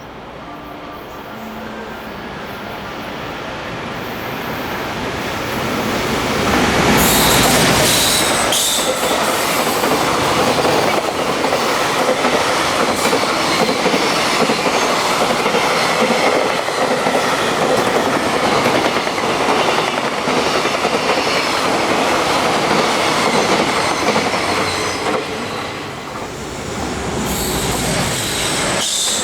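A long freight train passing through a station at speed: the rumble builds over several seconds as it approaches, then a long stretch of wheels clattering over rail joints with some wheel squeal, easing off briefly near the end before rising again.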